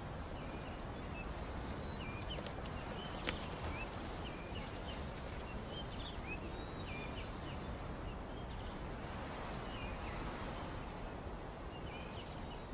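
Outdoor natural ambience: a steady background hiss with many short, high bird chirps scattered through it, and a single sharp click about three seconds in.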